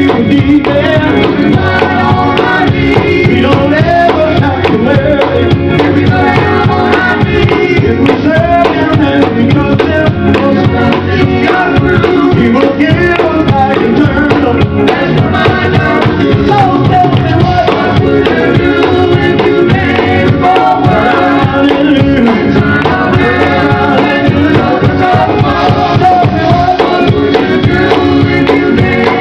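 Live gospel music: a vocal group singing with band accompaniment and a steady drum beat.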